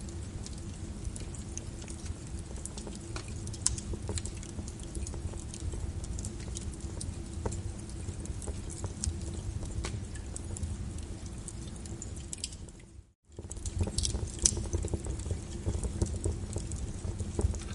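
Wood fire burning in a fireplace: many irregular sharp crackles and pops over a steady low rumble of the flames. About thirteen seconds in the sound dips away almost to nothing and comes straight back.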